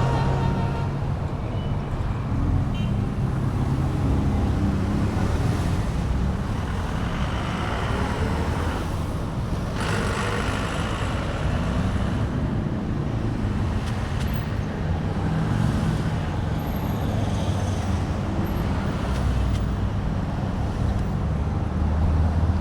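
Steady low rumble of wind and road noise on a camera mounted to a moving bike, mixed with traffic noise.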